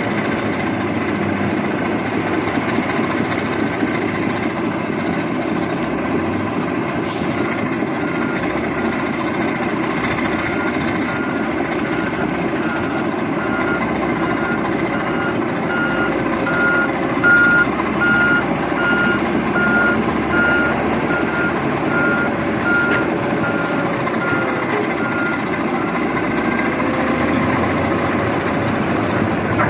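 Heavy diesel engine of an old bulldozer running steadily. A backup alarm beeps in an even series from about seven seconds in until shortly before the end, loudest in the middle.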